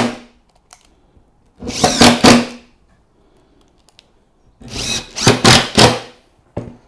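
Power drill driving wood screws through a pre-drilled timber support block into a stair string. It runs in short bursts of about a second, about two seconds in and again, a little longer, about five seconds in.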